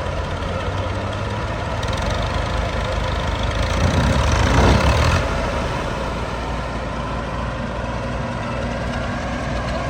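Combine harvester's diesel engine running steadily. It swells louder about four seconds in and drops back about a second later.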